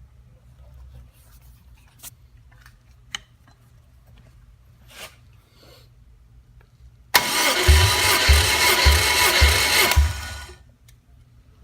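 Subaru EJ205 2.0 L flat-four long block being cranked over by its starter for about three seconds, starting about seven seconds in, with a regular low thump a little under twice a second; a few light clicks and handling noises come before it.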